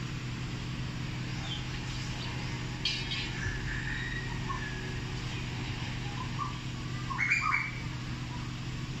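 Birds chirping in a few short calls, the loudest cluster about seven seconds in, over a steady low hum. There is a brief tap about three seconds in.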